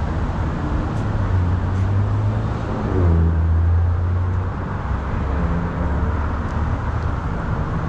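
Steady low engine rumble of motor vehicles with traffic noise, swelling a little about three seconds in.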